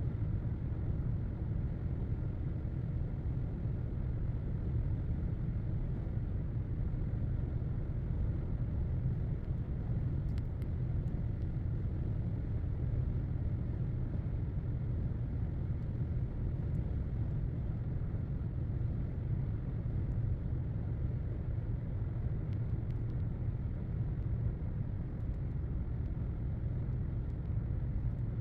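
Steady road and engine rumble inside a moving car's cabin, unbroken and even throughout.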